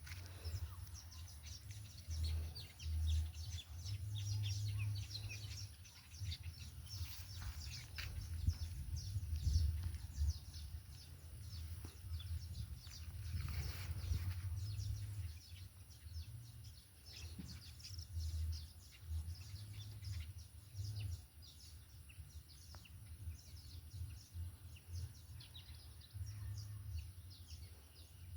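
Small birds chirping over and over, with a low, uneven rumble of wind on the microphone.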